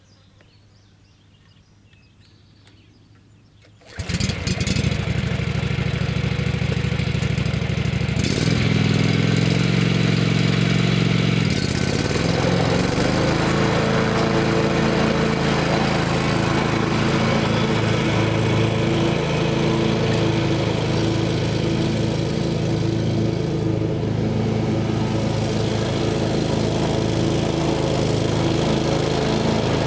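Kawasaki FH500V 17 hp V-twin engine on a Scag walk-behind mower starting: quiet at first, then it catches about four seconds in and runs. Its note changes twice, around eight and twelve seconds in, then it settles into a steady run.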